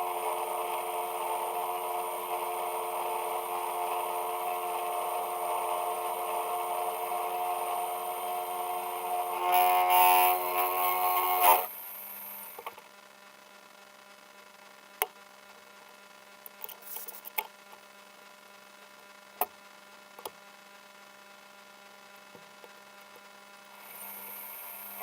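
A metalworking machine tool running steadily with a whine of several tones, louder and harsher for about two seconds near ten seconds in. It is switched off at about twelve seconds and runs down. A few sharp clicks follow, and the machine starts again near the end.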